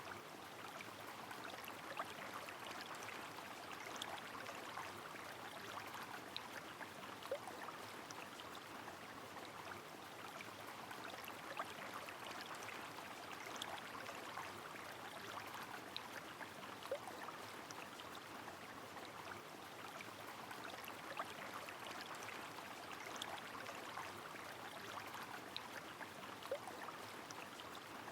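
Steady rush of a flowing river with rain falling, scattered sharp drop sounds ticking out above it every second or two.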